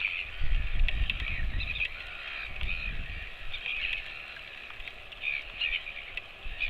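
Birds calling in many short, repeated calls, with a gusty low rumble underneath.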